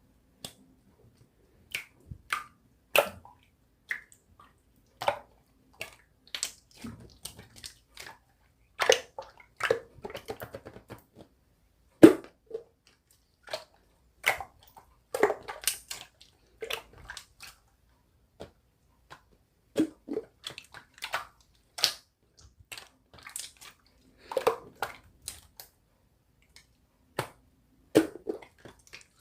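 Slime being squished, stretched and pressed by hand, giving irregular sticky pops and clicks with short wet squelches between them.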